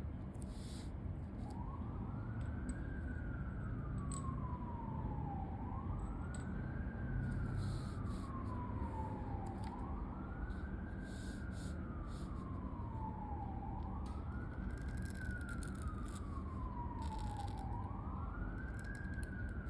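A siren wailing, its pitch rising quickly and then falling slowly in a repeating cycle about every four seconds, five times over. Short, irregular scratches of a pen nib on paper run alongside it.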